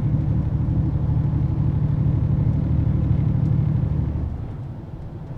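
Semi truck's engine and road noise heard inside the cab while driving on the highway, a steady low drone that drops noticeably quieter about four seconds in.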